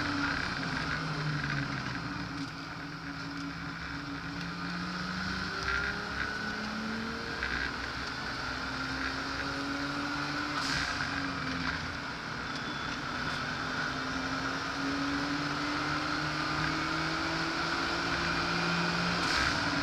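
Car engine heard from inside the cabin, driven hard on a race circuit. Its note climbs and drops as the car accelerates and slows, with a long climb through the second half that falls away near the end, over steady road and wind noise.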